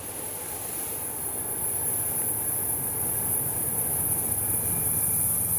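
Locomotive-hauled passenger train approaching on curved track, its rumble growing steadily louder. A steady high-pitched squeal runs over the rumble, typical of wheels squealing on the curve.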